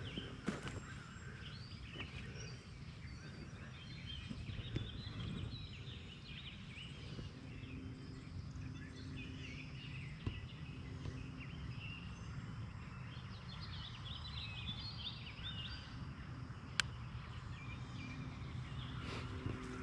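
Rural outdoor ambience: many small birds chirping over a steady low rumble, with one sharp click near the end.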